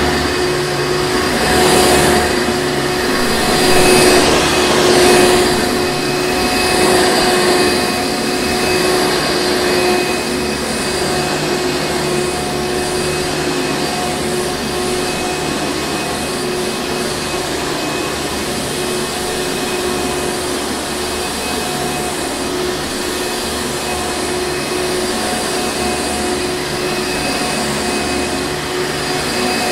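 Hoover Encore Supreme upright vacuum cleaner running continuously: a steady motor whine with a fixed pitch over a rush of air. It swells louder a few times in the first seven seconds or so, then holds even.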